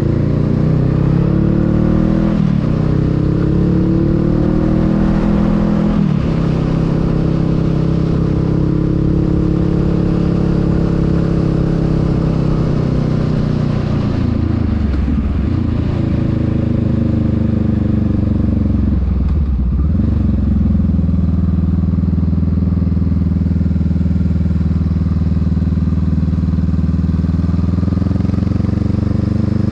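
Honda Rebel 500's parallel-twin engine running under way on a ride. Its pitch climbs, falls back about 2.5 and 6 seconds in, and twice drops low and builds up again, around 15 and 20 seconds in.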